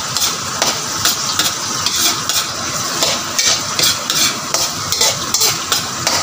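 Chopped onion sizzling in hot oil in a nonstick wok, being sautéed until fragrant, with a metal ladle stirring and scraping through it in repeated strokes.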